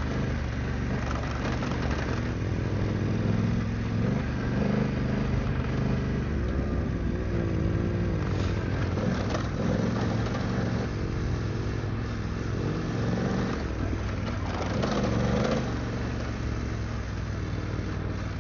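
BMW F900GS adventure motorcycle's parallel-twin engine running steadily while riding a sandy dirt trail, the revs rising and falling a few times around the middle.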